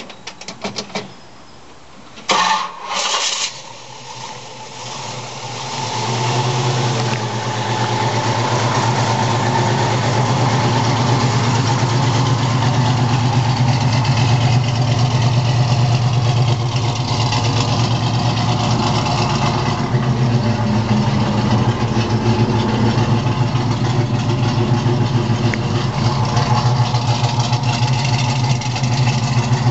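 A 454 cubic inch Chevrolet big-block V8 with a mild hydraulic cam being started: the starter cranks briefly, the engine catches with a couple of loud bursts about two seconds in, then runs up and settles into a steady idle.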